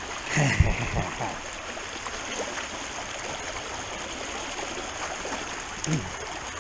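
Rain-swollen creek water running steadily, with a short louder burst about half a second in and a smaller one near the end.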